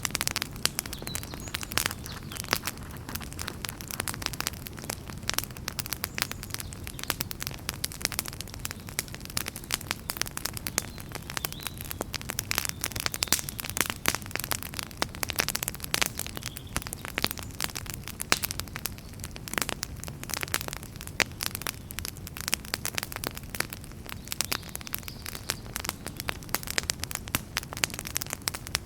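Wood fire in a fireplace crackling: many sharp irregular pops and snaps over a steady low rumble of burning.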